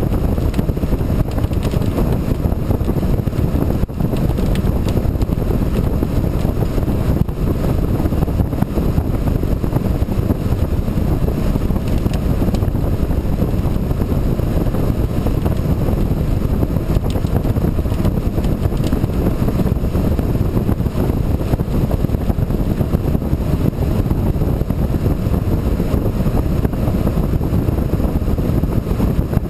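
Steady wind buffeting the microphone, a dense low rumble with no breaks.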